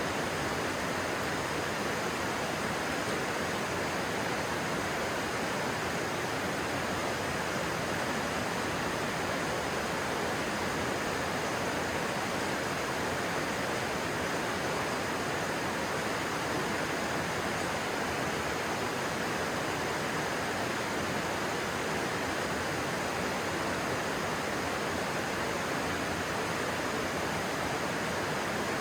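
Stream water rushing steadily, an even unbroken wash of sound.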